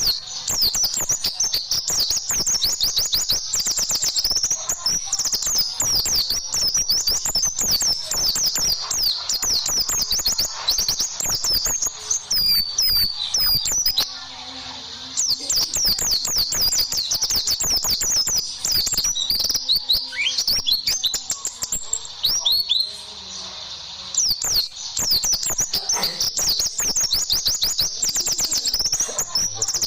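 Pleci (white-eye) singing a long, rapid, high-pitched chattering song of fast chirps and whistles, the 'tembakan' style prized in champion birds. It breaks off briefly twice.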